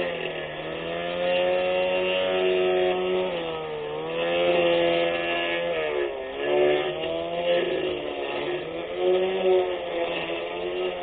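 A 24V brushless electric grass cutter's motor whining at speed. Its pitch sags and recovers about four times, as the load on the cutting head rises and falls while it cuts grass.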